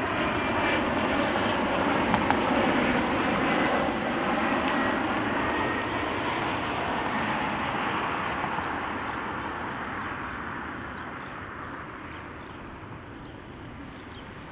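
CRJ-701ER regional jet's twin turbofan engines passing on arrival, a steady jet rush with a faint whine that slowly drops in pitch, fading over the last few seconds as the plane moves away.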